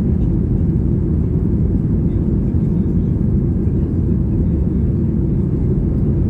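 Steady low rumble of a Boeing 737 MAX 8 cabin in flight shortly after takeoff: the CFM LEAP-1B engines and rushing air, heard from a window seat.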